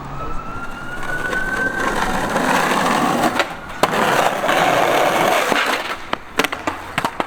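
Skateboard wheels rolling fast over concrete, growing louder as the board approaches. There is a sharp crack a little before four seconds in, then a quick series of knocks and slaps of the board near the end.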